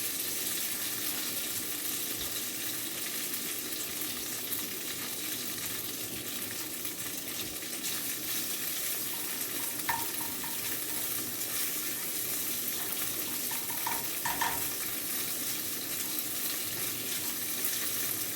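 Crumbled tofu sizzling steadily in melted butter in a frying pan, with a few short clinks of a utensil against the pan as it is stirred, about ten and fourteen seconds in.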